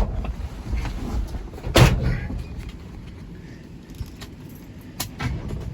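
A pickup truck door slams shut about two seconds in, among lighter clicks and knocks, over a low rumble.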